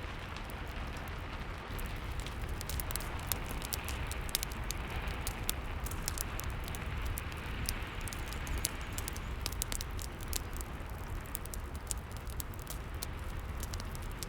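Steady rain hiss with a fireplace fire crackling over it: many quick, sharp pops, coming thicker in the second half.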